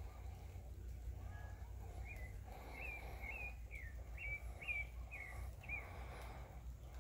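A wild bird calling a quick series of about ten short, high chirps, each note a quick rise and fall in pitch, starting about two seconds in and stopping near six seconds, over a low steady rumble.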